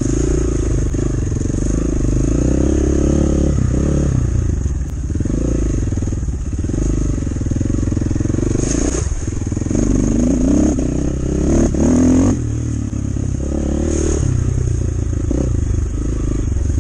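Enduro motorcycle engine running in low gear, its pitch rising and falling with the throttle, revving hardest about ten seconds in. Occasional clattering knocks come from the bike working over rough ground.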